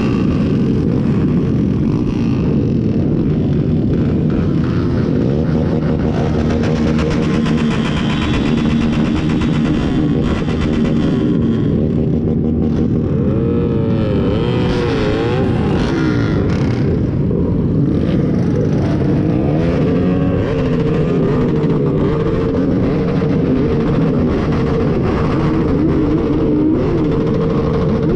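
Several motorcycle engines running together and being revved up and down repeatedly, the pitch rising and falling over and over from about halfway through.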